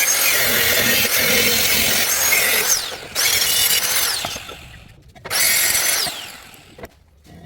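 A handheld power tool run in three bursts, its motor winding down in a falling whine each time the trigger is let go.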